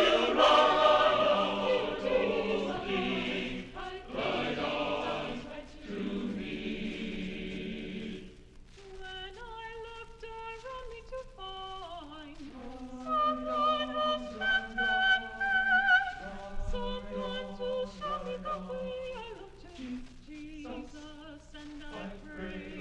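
Choir singing a sacred choral piece: a full, loud passage for about the first eight seconds, then a quieter, thinner passage of held notes, some with vibrato.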